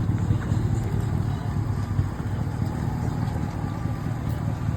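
Engine of a 1984 Chevrolet square-body pickup running steadily at low speed, a continuous deep rumble.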